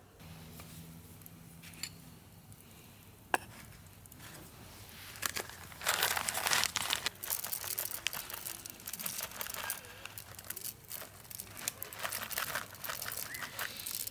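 Crinkling and rustling of something being handled, in uneven bursts from about five seconds in, after a single sharp click.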